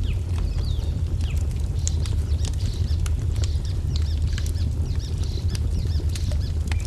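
Wood fire crackling with irregular sharp pops and snaps over a steady low rumble, while small birds chirp repeatedly in short, quick calls.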